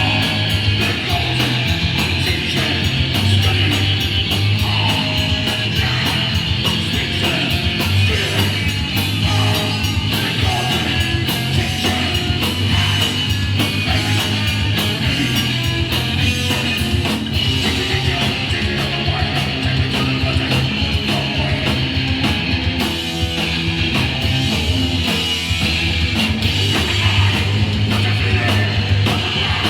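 Hardcore punk band playing live: electric guitar, bass and fast drums, loud and steady throughout.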